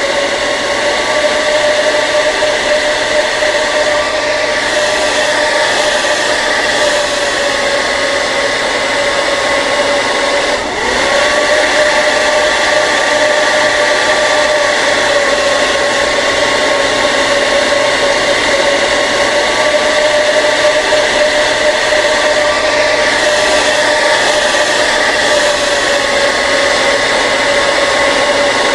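Hair dryer running steadily: a constant motor whine over the hiss of blowing air, with a brief dip in level about eleven seconds in.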